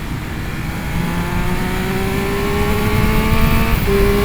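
Triumph Speed Triple 1200 RS inline-three engine pulling hard under acceleration, its note climbing steadily, then dropping as it shifts up a gear near the end and climbing again.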